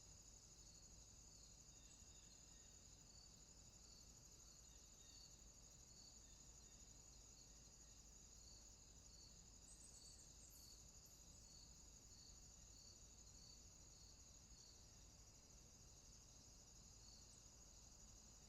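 Faint night insect chorus: a steady high cricket trill, with a softer chirp repeating about once a second.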